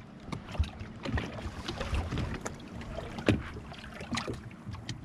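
Water lapping and splashing irregularly against the jet ski's hull, with wind on the microphone.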